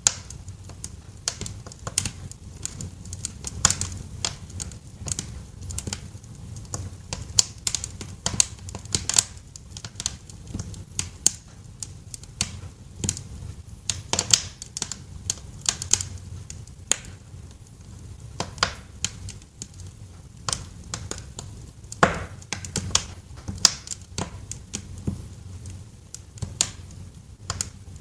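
Wood fire crackling in a fireplace: irregular sharp pops and snaps, several a second, over a steady low rumble of the burning fire, with one louder pop about 22 seconds in.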